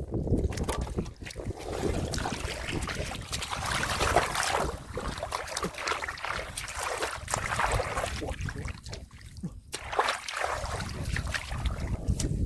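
Shallow muddy field water sloshing and splashing irregularly as fish are grabbed by hand, with wind rumbling on the microphone.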